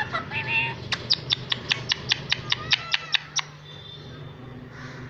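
Pet Indian parrot calling: a few short calls, then a fast run of about a dozen sharp, evenly spaced calls, about five a second, that stops abruptly a little past halfway.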